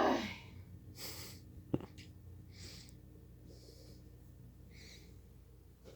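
A few short, breathy hisses about a second apart, with one sharp click just under two seconds in.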